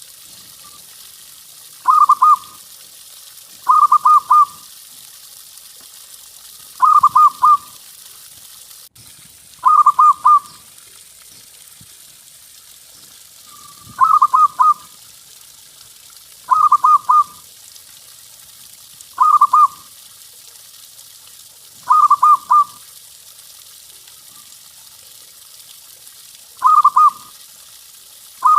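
A zebra dove (perkutut) cooing: a short rolling phrase of a few quick notes, repeated about every two to three seconds.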